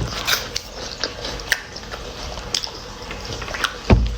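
Wet eating sounds close to the microphone: chewing and lip-smacking clicks at irregular intervals, with a heavy thump about four seconds in.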